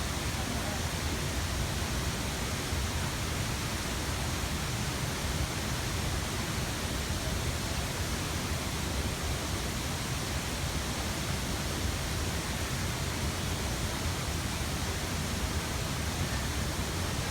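Steady rushing of water, an even hiss without breaks or changes.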